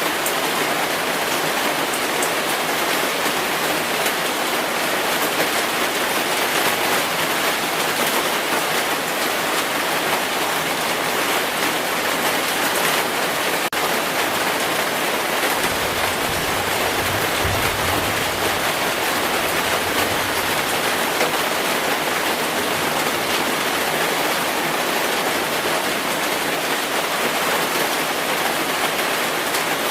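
Heavy rain falling steadily, with a brief low rumble of thunder a little past halfway.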